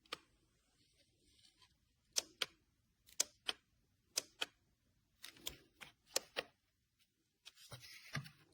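Sharp clicks, mostly in pairs about a second apart, with a quicker cluster of softer ones near the end: button presses on a handheld CYCPLUS rechargeable electric inflator.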